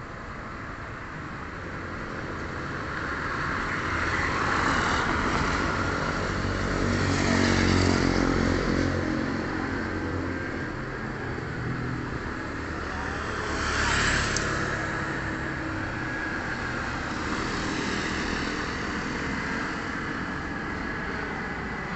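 Airbus A320 jet airliner flying past, its engine noise swelling to a peak about eight seconds in and slowly fading. A brief louder rush comes near the middle, about fourteen seconds in.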